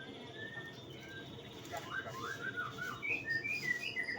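White-rumped shama (murai batu) singing: a few faint whistled notes, then from about two seconds in a quick run of clear whistles gliding up and down, growing busier toward the end.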